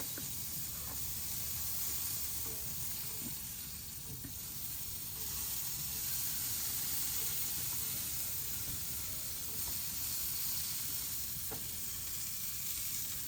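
Chicken leg quarters sizzling steadily on a hot smoker grate.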